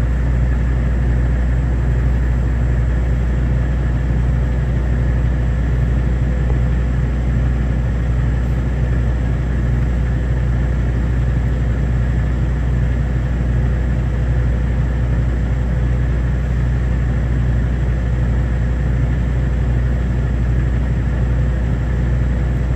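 Semi truck's diesel engine idling, a steady low hum that stays even throughout.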